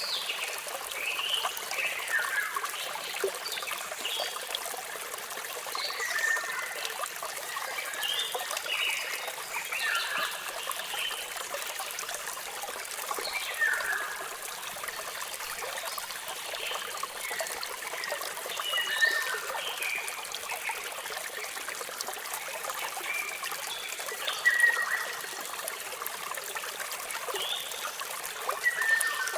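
Waterfall water rushing steadily, with birds chirping in short, high calls scattered throughout.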